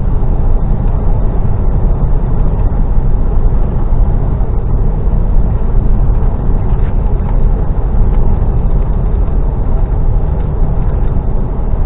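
HGV lorry's diesel engine and road noise, a steady low rumble heard from inside the cab while driving.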